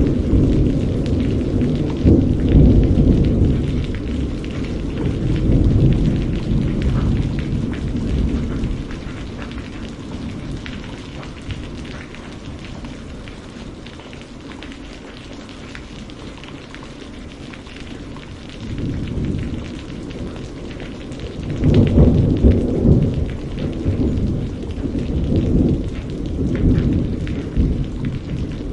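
Steady rain falling, with rolling thunder that rumbles low for the first several seconds, dies down, then rolls in again about two-thirds of the way through, loudest shortly after it returns.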